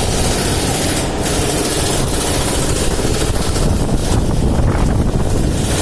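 Strong sandstorm wind buffeting the microphone: a loud, steady rush with a rough, fluttering rumble.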